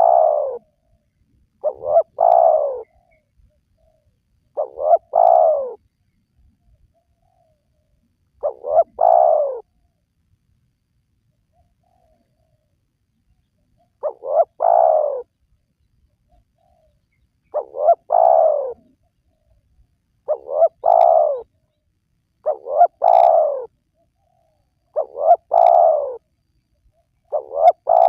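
Spotted dove (tekukur) cooing: about ten calls in a row, each a short clipped opening note and then a longer falling coo. They come every two to three seconds, with one longer pause near the middle.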